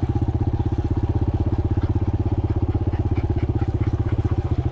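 Dirt bike engine running at a steady, low speed, its even firing pulses unchanged throughout.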